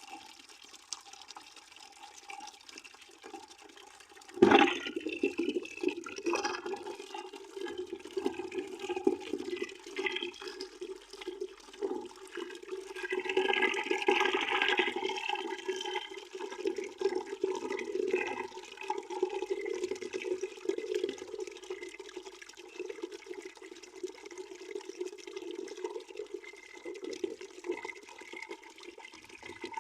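Water running into a bucket, a steady splashing stream with no let-up. It jumps sharply louder about four seconds in and swells again for a couple of seconds around the middle.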